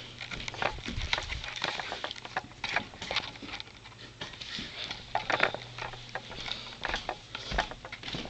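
Scattered light knocks, taps and rustling of handling noise, with a faint steady low hum underneath.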